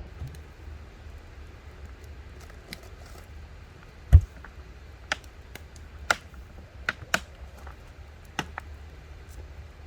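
Scattered sharp clicks and taps of objects being handled, with one heavier knock about four seconds in.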